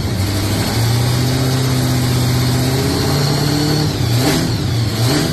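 Rebuilt Holden 253 V8 running steadily on its first start-up, its revs held with small rises and dips, while the new cam and lifters bed in.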